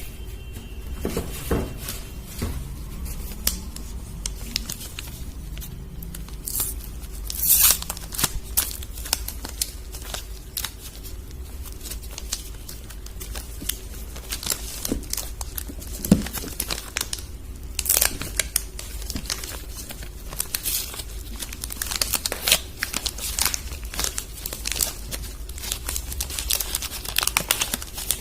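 Soap bar wrappers being torn open and crinkled by hand: a continuous crackling rustle with louder crinkling bursts about 7 and 18 seconds in, over a low steady hum.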